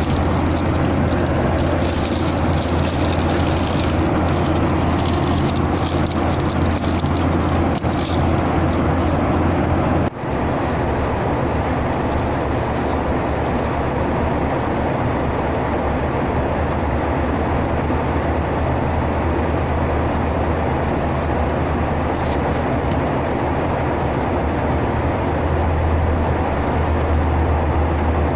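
Steady cabin noise of a Boeing 737-900ER airliner: engine and airflow noise with a strong low hum, briefly dropping about ten seconds in.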